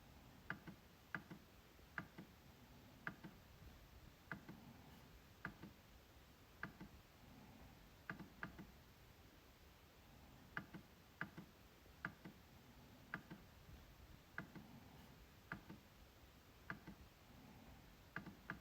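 MacBook trackpad being clicked: sharp single clicks at an uneven pace of about one a second, some in quick pairs.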